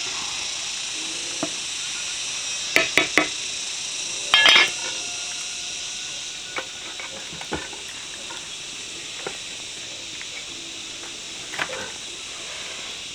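Pots, dishes and metal utensils clinking: three quick clinks about three seconds in, a louder rattle a little after four seconds, then scattered light taps. A steady hiss runs underneath.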